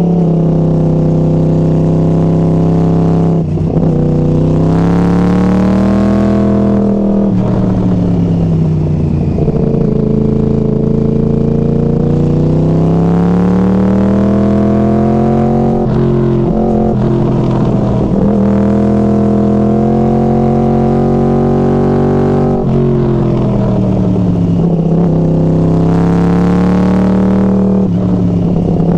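Yamaha R1 crossplane inline-four running through Hotbodies MGP Growler carbon-fibre slip-on exhausts while being ridden. The engine note rises and falls in pitch as it accelerates and rolls off, with brief breaks at gear changes.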